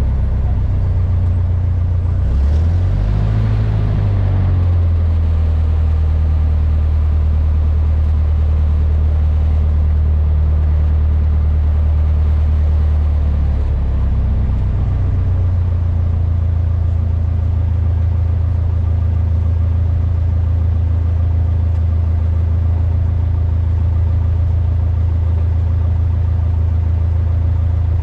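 Cessna 152's Lycoming O-235 four-cylinder engine and propeller running steadily, its pitch wavering briefly a few seconds in and shifting slightly about halfway through.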